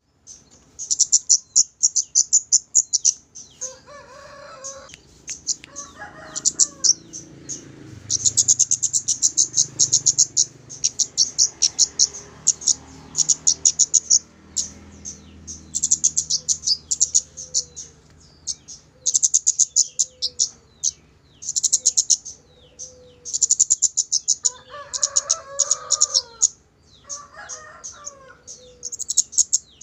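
Kemade bird song used as a lure to get an untrained bird singing: rapid high chirps in bursts of a couple of seconds, repeated throughout. A lower call, which the tagger hears as a chicken or rooster, cuts in a few times, near the start and again near the end.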